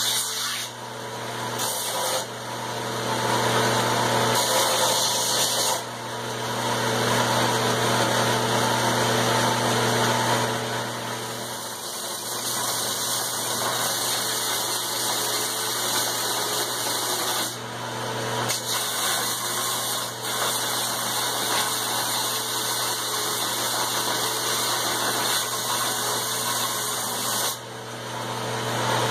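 Electric grinder running with a steady hum while a forged steel hammer head is rough-ground on it; the grinding noise swells and drops every few seconds as the steel is pressed to it and lifted off.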